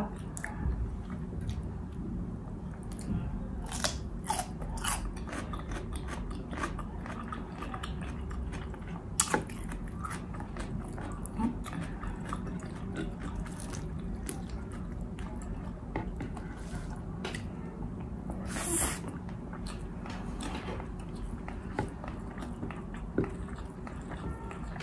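Close-up chewing and biting of bistek Tagalog (soy-and-calamansi braised beef steak), with irregular wet mouth clicks and smacks. There is a short hissing burst about nineteen seconds in.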